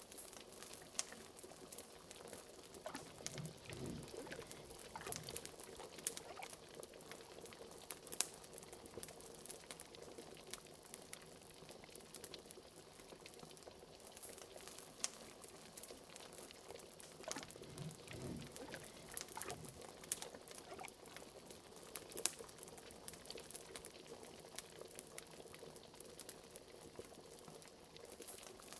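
Liquid bubbling steadily in a pot, like a simmering cauldron, with a couple of larger bubbling swells, one about 4 seconds in and one about 18 seconds in, over a wood fire crackling with frequent sharp snaps.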